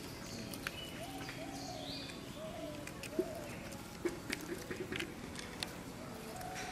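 Short, arched bird calls repeating several times, with scattered light clicks and rustles from pumpkin flowers being handled.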